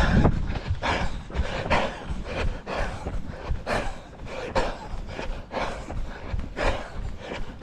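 A runner panting hard, about one loud breath a second.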